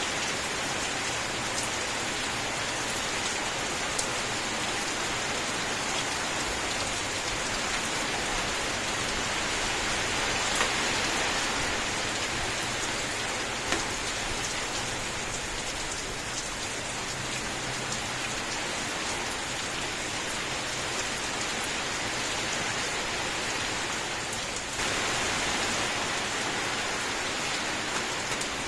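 Steady heavy rain: a dense, even hiss with a few sharper drop ticks here and there. It grows suddenly louder near the end.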